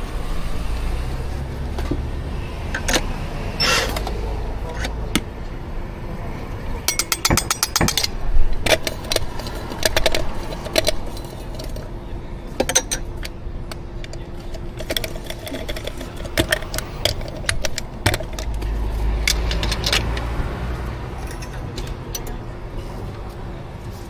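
Clinks, taps and knocks of coffee-making equipment being handled, with a quick rattling run about seven seconds in, over a low rumble of passing traffic that swells at the start and again near the end.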